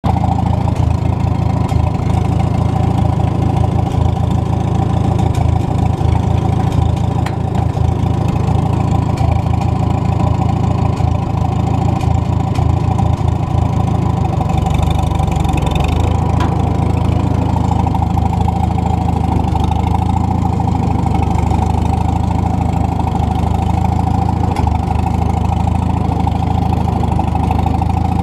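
McCormick-Deering W-4 tractor's four-cylinder engine running steadily at about idle. Its note shifts about halfway through and then holds steady again.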